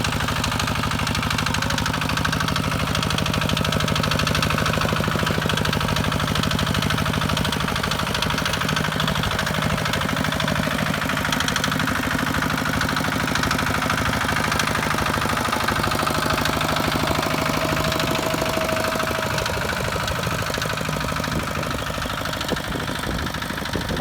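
Kubota walking tractor's single-cylinder diesel engine running steadily with a rapid, even chugging of firing pulses, easing slightly quieter near the end.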